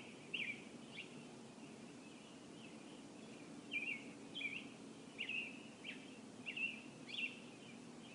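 Faint birds chirping over a soft outdoor hiss: short, bending chirps, irregular, about one or two a second.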